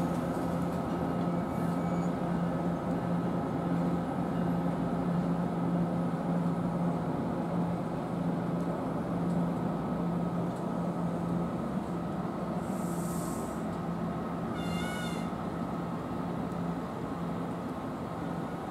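A train standing at a station platform with a steady electric hum. Two short high hisses come about 13 and 15 seconds in, the second with a brief squeaky chirp.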